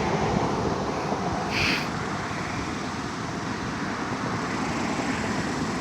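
Gusty wind blowing steadily ahead of an approaching thunderstorm, with a brief higher-pitched sound about a second and a half in.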